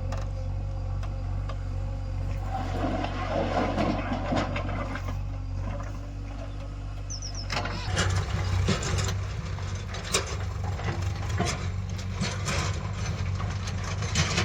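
Heavy diesel machinery engine running steadily. From about eight seconds in it gets louder, with a run of sharp knocks and clanks.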